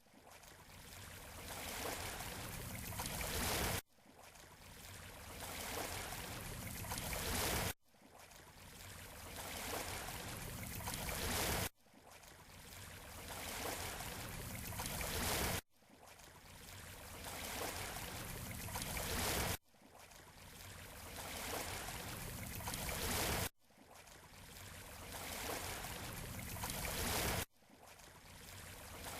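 Waves washing on a beach shore: a hissing swell of surf that builds over about four seconds and then cuts off abruptly. The same swell repeats evenly about every four seconds, a short recording played in a loop.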